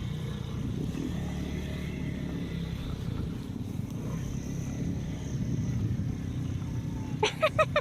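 Motorcycle engine running steadily while riding, with rumbling road noise. Near the end come a few short, pitched beeps or calls, louder than the engine.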